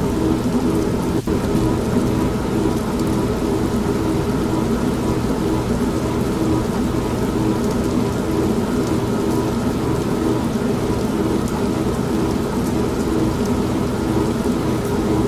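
Old manual washing machine running with a steady motor hum, mixed with continuous rain and thunder.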